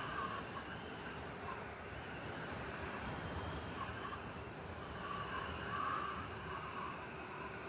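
Blizzard ambience in a city: steady wind-driven snowstorm noise with distant traffic running underneath, even throughout.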